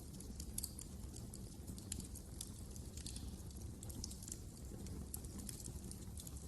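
Wood fire crackling: irregular sharp pops and snaps, several a second, over a low steady rumble of the burning logs.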